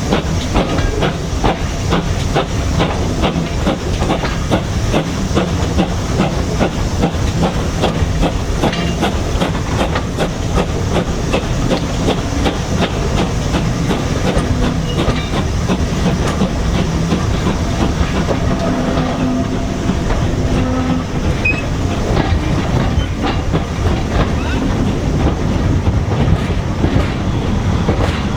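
Steam-hauled passenger train running, its wheels clattering rhythmically over the rail joints in a steady, loud, unbroken run.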